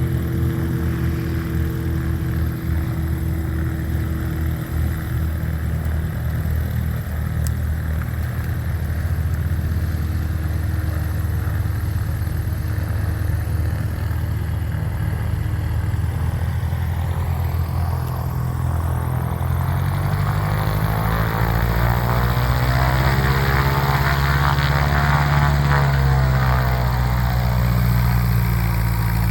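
Light propeller aircraft's piston engine running steadily. It grows louder from about twenty seconds in as the aircraft comes close, then eases slightly near the end.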